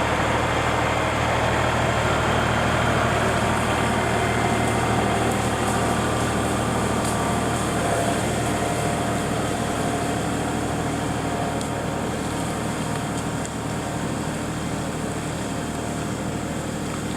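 Small diesel tractor engine running steadily under throttle, a constant low mechanical drone.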